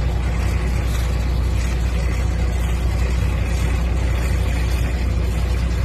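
A large engine running steadily, with a deep low hum under an even rushing noise; it holds the same level throughout, the sound of heavy machinery such as an excavator.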